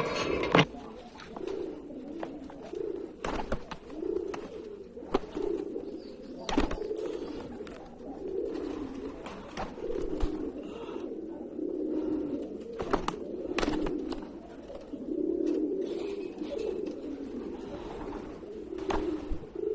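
Domestic pigeon cooing over and over in low, rolling coos, with a few sharp clicks in between.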